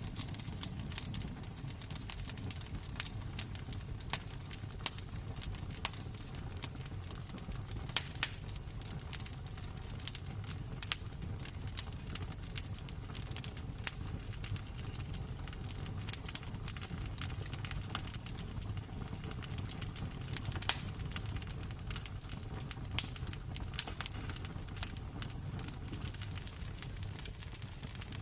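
Wood fire crackling in a fireplace: frequent, irregular sharp pops and snaps, a few louder than the rest, over a steady low rumble.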